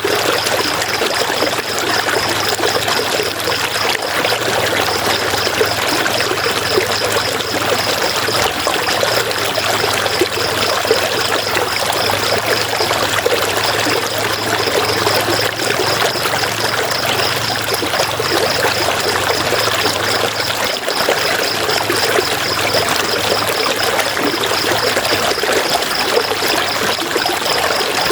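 River water flowing and splashing, a steady rushing trickle. Over it runs a fast, regular pulsing high chirp, with a short break about halfway through.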